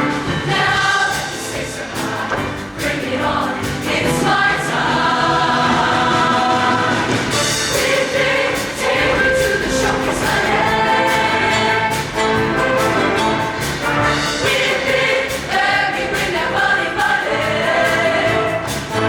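Show choir singing with instrumental accompaniment, voices in several parts over a full backing.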